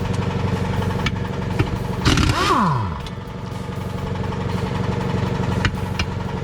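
Impact wrench hammering steadily on the transmission mount bolts, with one brief spin up and back down about two seconds in.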